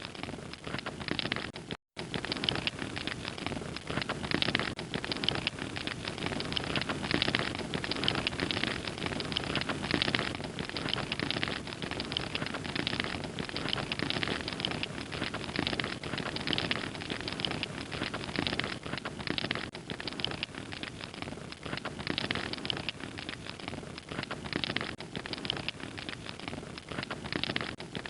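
Wood fire crackling and popping in a dense, steady stream of small snaps, with a momentary cut to silence a little under two seconds in.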